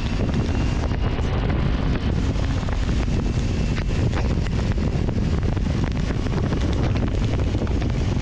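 Heavy wind buffeting the microphone, with a steady low rumble and many quick sharp ticks of rain striking, as if travelling on a road in the rain.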